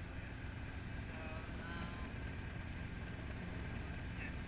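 Helicopter engine and rotors running steadily, a constant low drone. A faint, brief voice-like sound rises over it between about one and two seconds in.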